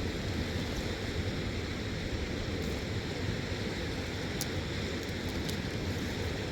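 Steady wind rushing across the microphone, with a few faint clicks in the second half.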